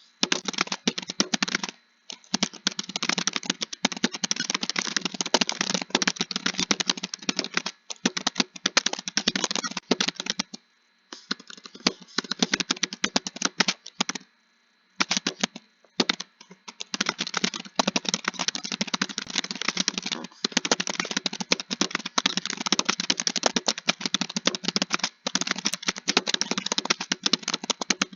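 Fast typing on a computer keyboard: a dense, continuous stream of key clicks, broken by brief pauses about ten, fourteen and sixteen seconds in.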